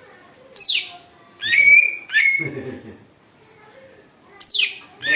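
Green leafbird (cucak ijo) giving loud, sharp calls: a steep downward-sweeping call about half a second in, two calls that rise and hold a high note, then another downward sweep near the end.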